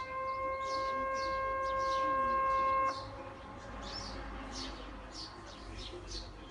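Tsunami warning siren holding a steady wail after winding up, then cutting off abruptly about three seconds in. Birds chirp over it throughout, two or three short chirps a second.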